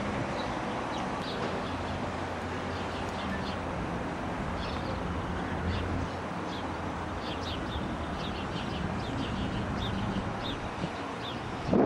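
Birds chirping: many short, sharp, high calls repeated all through, over a steady low background rumble.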